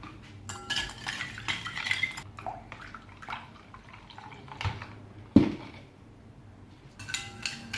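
A utensil stirring egg and ice-cold water in a bowl, clinking against the bowl in quick irregular taps, with one sharper knock a little past halfway.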